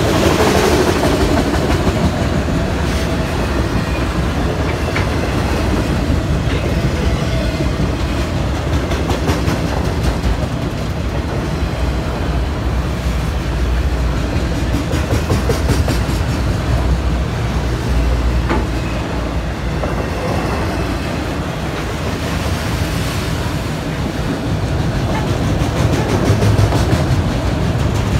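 Freight train of autorack cars rolling past, with a steady rumble and the clickety-clack of steel wheels over the rail joints.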